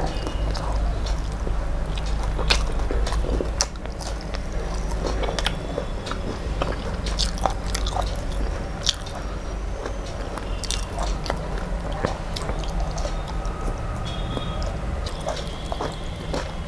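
Close-miked chewing of fried food, with many short, sharp crunches and wet mouth clicks over a low steady hum.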